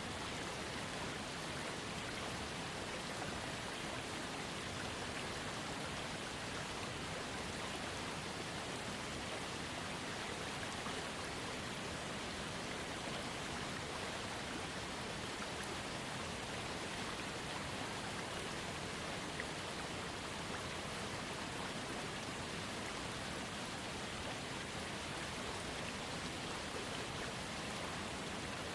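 Waterfall heard from a trickling creek: a steady, even rush and splash of falling water.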